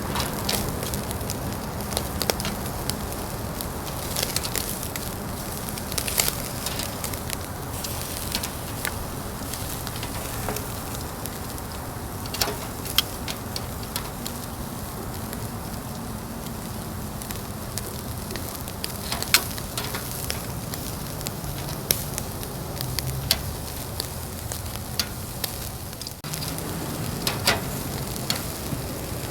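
Food sizzling on the grate of a Uniflame Fire Grill fire pit over an open fire. There is a steady hiss with frequent sharp, irregular crackles and pops from the burning fire.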